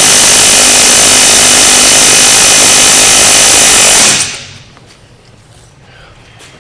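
Power tool running flat out in one continuous burst against a wheel hub seized in the knuckle, then stopping about four seconds in.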